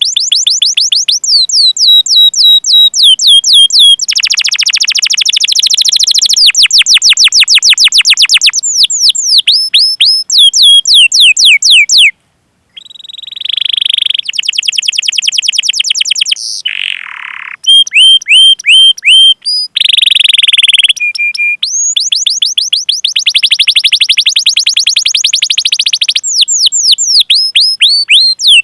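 Canary singing a long trained song: runs of quick high sweeping chirps ('cuit cuit' calls) alternating with fast rolling trills. The song breaks off briefly about twelve seconds in, then carries on.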